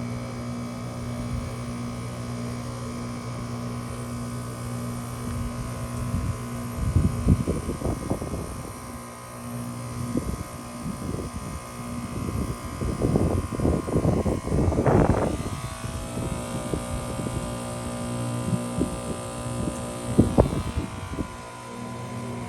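2020 Trane XR heat pump outdoor unit running through its defrost cycle with a steady hum. From about seven seconds in, irregular bursts of rushing noise come and go, loudest about fifteen seconds in, and the unit's tone changes soon after.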